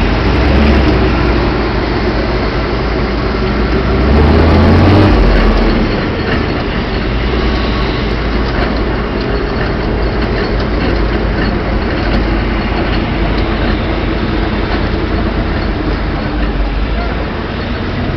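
Turbocharged 6.5-litre diesel V8 of a 1984 Chevy 3/4-ton pickup running, heard from inside the cab. It swells briefly about four seconds in, then settles to a steady run.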